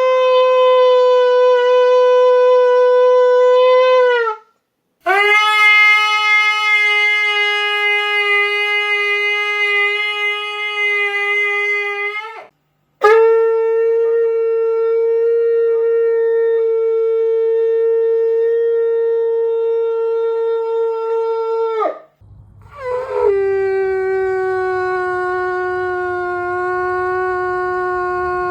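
Shofar blasts: four long, steady held notes in a row, each several seconds long and at a slightly different pitch, with short breaks between them. Each note ends with a small drop in pitch.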